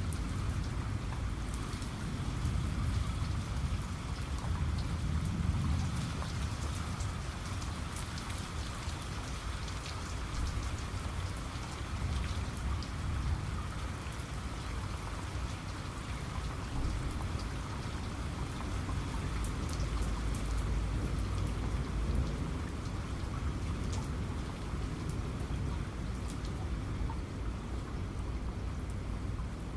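Heavy rain falling steadily, with drops pattering on a hard surface. Low thunder rumbles swell about five seconds in and again around twenty seconds.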